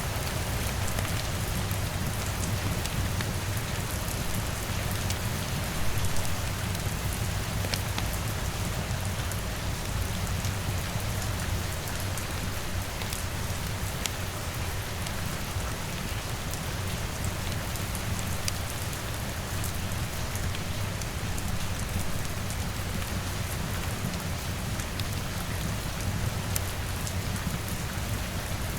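Steady rain with a crackling wood fire: an even hiss of rain, many scattered sharp crackles, and a steady low rumble underneath. There is a brief louder swell about six seconds in.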